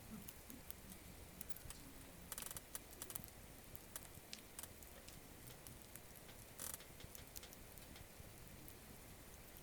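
Small wood campfire crackling faintly, with scattered sharp pops and two brief louder bursts of crackle, one about two and a half seconds in and one near seven seconds.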